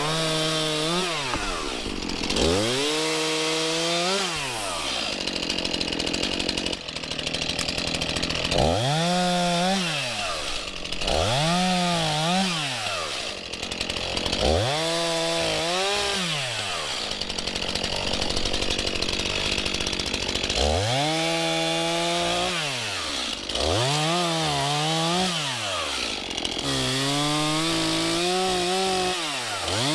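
Two-stroke chainsaw revved up and let back down repeatedly, about eight times, its pitch rising and falling with each squeeze of the throttle, some held longer, as in a run of cuts.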